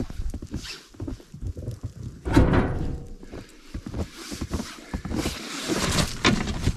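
Gear being handled and rummaged through in a bag of rope and straps: irregular knocks and rustling, with one louder thump a little over two seconds in.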